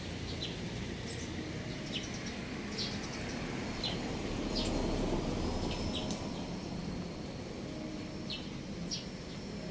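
Birds chirping, short high calls coming every second or so at irregular intervals, over a steady low rumble.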